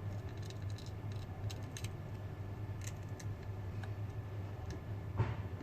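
Light clicks and taps of small repair tools working on a smartphone, over a steady low hum, with one sharper click near the end.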